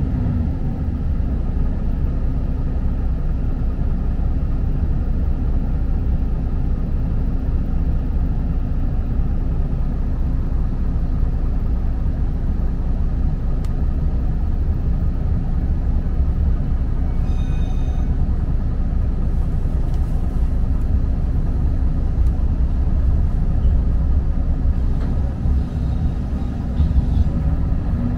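Diesel railcar running along the line, heard from inside the cabin: a steady low engine and wheel rumble. A short high ringing sound comes through briefly past the middle.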